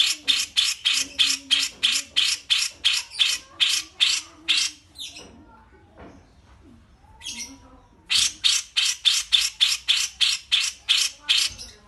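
A cage bird giving a fast run of harsh, scratchy chattering notes, about four a second, breaking off for about three seconds around the middle with one short note, then starting again at the same pace.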